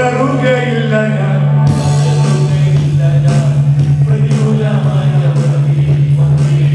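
Live church music: singing over a band, with a low bass note held steady underneath.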